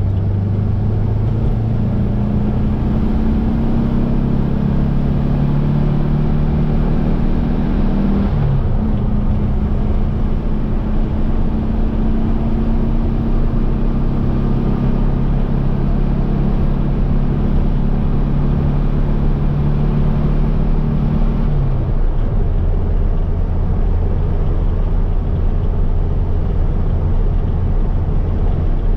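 1700cc air-cooled Volkswagen flat-four of a Baja Bug pulling under way. Its pitch climbs steadily, drops sharply about eight seconds in, then climbs again. It falls to a lower steady drone about twenty-two seconds in.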